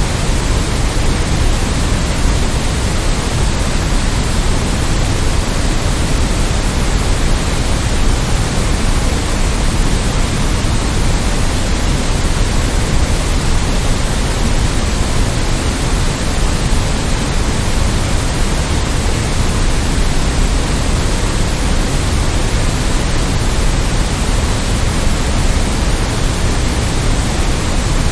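Steady white noise: a constant, even hiss over a deeper rumble, with no change in level or texture.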